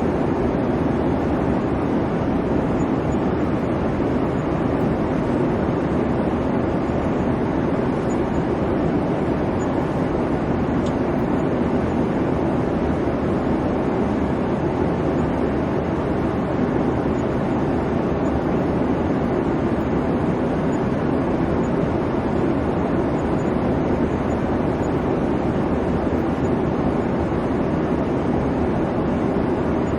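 Airliner cabin noise in flight: a steady, unbroken rumble of engine and airflow, strongest in the low-middle range.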